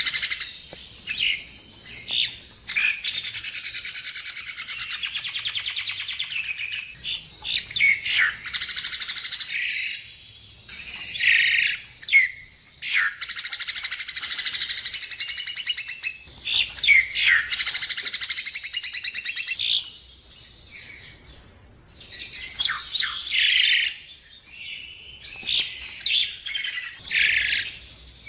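Javan myna (jalak kebo) singing: long, fast rattling trills several seconds each, high-pitched, broken by short sharp whistles and squawks.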